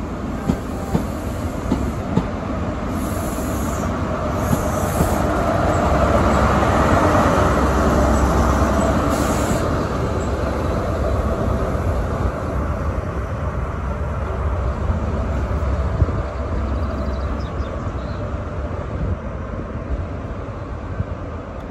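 A train moving along the platform: its running noise swells to a peak about seven seconds in and then slowly fades, with a few sharp clicks along the way.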